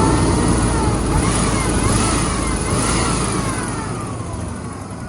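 1997 Chevy K1500's 5.7 L 350 V8 running, its pitch rising and falling a few times and the sound easing off over the last couple of seconds; the seller says the engine has a bad miss.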